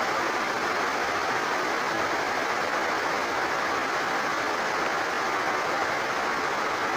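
Rain falling steadily, with the rush of overflowing water.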